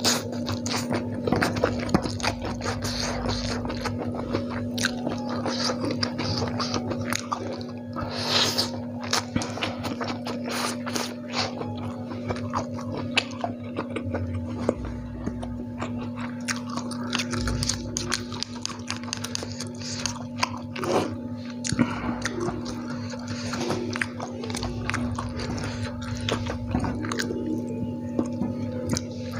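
A person chewing and slurping mouthfuls of spicy fried instant noodles close to the microphone, with many quick wet mouth clicks and smacks, over a steady low hum.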